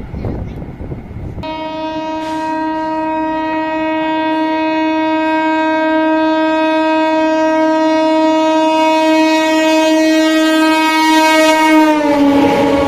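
A fast Indian Railways train's horn sounds one long steady blast as the train approaches, starting about a second and a half in. Near the end the horn's pitch drops as the train passes, and the rush and rumble of the train rises.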